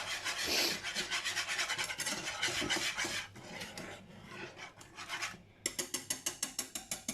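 Whisk beating a thick béchamel sauce in a pan: a quick, even scraping of about six strokes a second. It goes quieter and more broken about halfway through, then picks up again.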